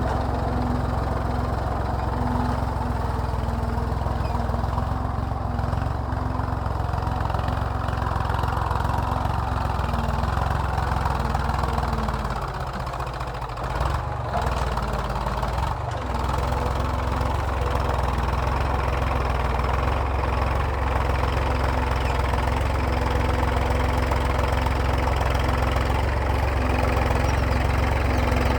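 Massey Ferguson tractor's diesel engine running steadily while pulling a plough. It drops in level about halfway through, with a couple of brief breaks, then picks back up.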